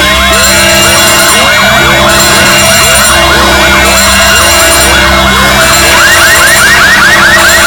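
A loud, dense pile-up of electronic siren-like wails and alarm tones layered over one another, with a low buzz underneath; a fast run of high rising whoops joins in about six seconds in.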